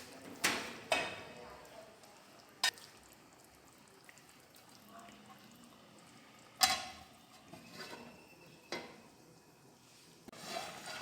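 A handful of sharp metal clinks and knocks of kitchen pots and utensils, some ringing briefly, about five in all, over a faint background.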